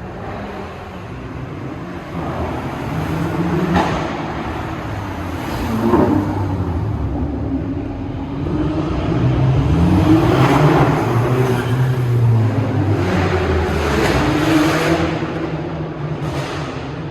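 Audi TT sports cars' engines revving and accelerating, their pitch rising and falling, busiest and loudest past the halfway point. Two sharp cracks come about four and six seconds in.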